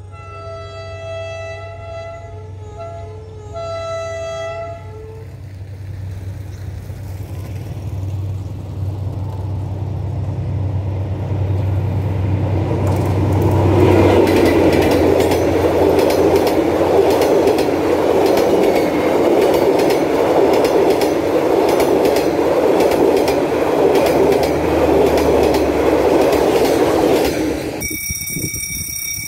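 A diesel-hauled passenger train sounds two long horn blasts as it approaches, its engine rumble swelling over the following seconds. Its coaches then roll past with a loud, steady clatter of wheels on rail. Near the end the train sound cuts off abruptly, giving way to a steady high-pitched buzzing.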